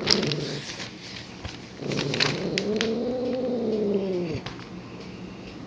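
Domestic cat giving one long, drawn-out yowl about two seconds in, rising and then falling in pitch over about two and a half seconds: an angry complaint as the newspaper he is lying on is pulled at. Newspaper crinkles and crackles in the first couple of seconds.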